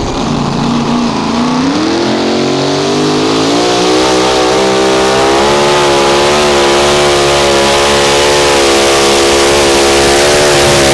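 Mini Rod pulling tractor's engine running loud, rising in pitch over a second or two early on and then held at high revs as it pulls.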